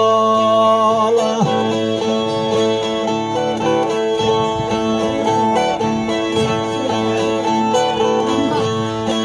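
A singer holds the last sung word of his verse for about a second, then a Brazilian viola plays a plucked, strummed instrumental interlude between the improvised sung stanzas of a cantoria de viola.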